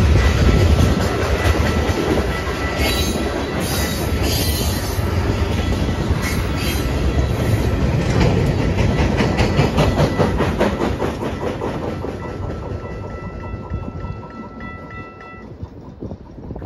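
Canadian Pacific freight train cars rolling past with a steady rumble, their wheels clicking in a regular rhythm over the rail joints. The sound fades away over the last few seconds as the end of the train passes.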